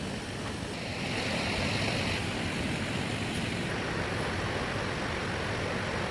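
Steady heavy rain, an even hiss that grows a little louder about a second in.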